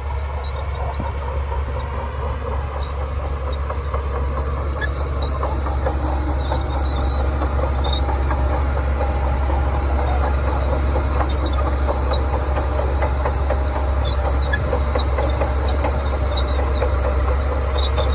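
Shantui DH17C2 crawler bulldozer running steadily, a heavy low diesel drone with a busy rattle over it, growing a little louder over the first several seconds.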